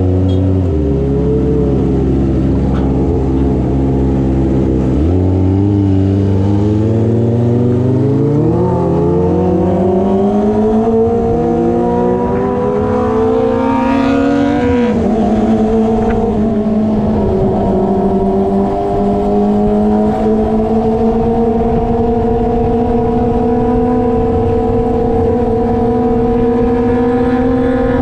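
Kawasaki ZX25R inline-four with an SC Project aftermarket exhaust under way. The engine note climbs steadily for about ten seconds under acceleration, drops sharply around the middle as the throttle is eased, then holds a steady cruising pitch.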